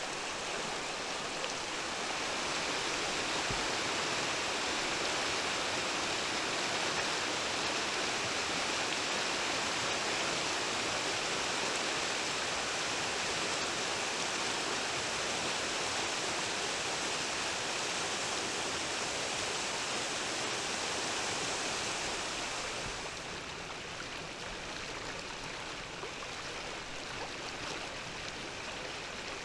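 Mountain stream flowing with a steady rushing hiss of water. About three-quarters of the way through it becomes a little quieter and less hissy.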